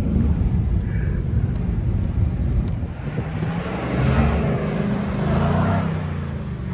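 Chevrolet Trailblazer's 5.3-litre LS V8 engine rumbling under load. Its pitch climbs as it revs up in the second half, then drops back near the end.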